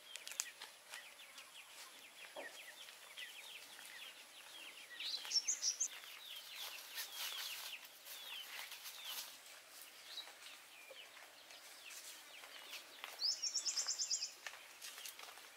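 Birds calling: a steady run of short, falling chirps, with a loud, fast trill about five seconds in and again near the end.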